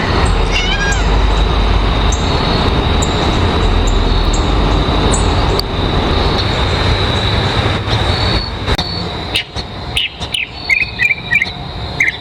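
A steady, loud rumbling noise with short high chirps over it. The rumble drops away after about eight seconds, leaving separate chirps.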